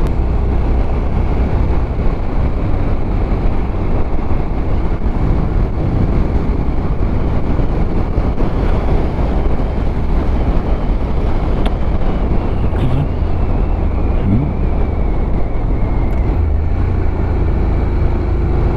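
Honda NC750X motorcycle riding at steady road speed: a continuous low engine drone mixed with wind and road noise on the microphone.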